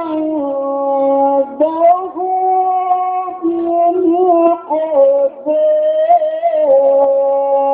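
A male reciter chanting the Quran in the melodic mujawwad style, drawing out the word 'ʿindahu' in long held notes that waver and turn in pitch, with short breaks for breath.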